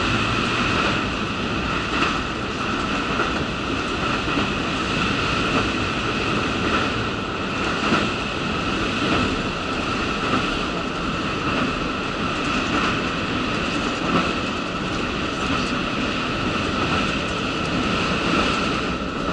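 Cabin noise inside a KiHa 85 diesel railcar on the move: a steady run of engine and wheel-on-rail noise, with a few clacks from the rail joints.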